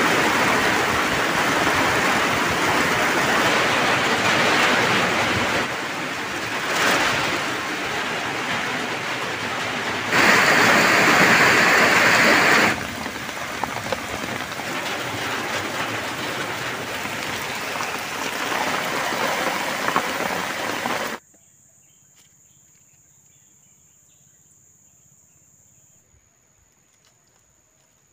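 Heavy rain pouring down, with water streaming off a roof edge, in several stretches that change loudness abruptly. About 21 seconds in it cuts off suddenly, leaving quiet with a faint, high, steady tone.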